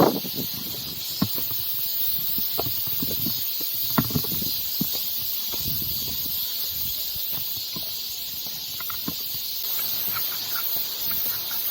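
Strong gusting wind buffeting the camera microphone in uneven low rumbles over a steady high hiss, with a few short clicks, the sharpest about a second in and again about four seconds in.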